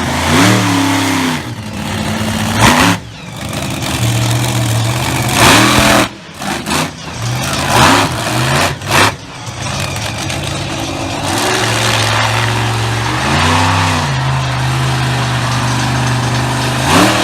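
Monster truck engine revving in repeated sharp throttle bursts, its pitch rising and falling with each blip. In the second half it holds a steady, loud run between revs.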